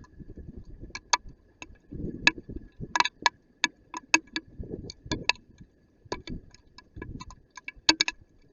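Hailstones striking a hard surface: an irregular patter of sharp clicks, some much louder than others, over an intermittent low rumble.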